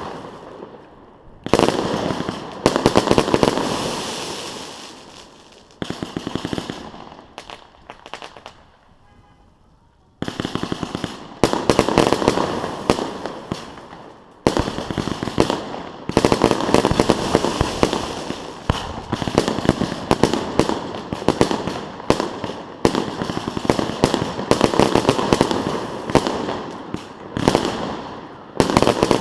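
Fireworks display: aerial shells bang and burst, each followed by long crackling trails. After a lull of a few seconds about a third of the way in, volleys of rapid bangs and crackle come one after another.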